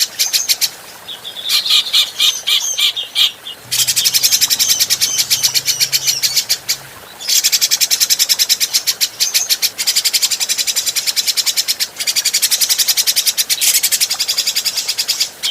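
Grey-cheeked bulbul (cucak jenggot) calling in a rapid chattering run of high, repeated notes, broken by short pauses about a second in, near three and a half seconds and around seven seconds.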